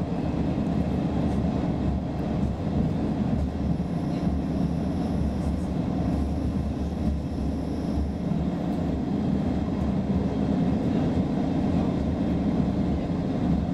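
Cabin noise of a Roslagsbanan X10p electric multiple unit running at speed: a steady low rumble of wheels and running gear on the track. A faint high-pitched whine comes in for a few seconds in the middle.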